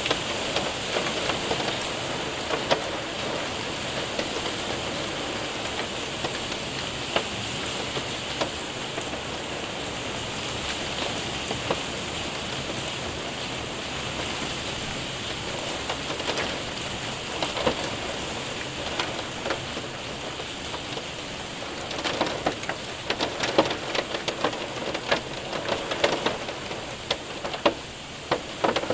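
Rain and hail hitting a window and roof: a steady hiss of rain with scattered sharp ticks of hailstones, which come thicker and louder for the last several seconds.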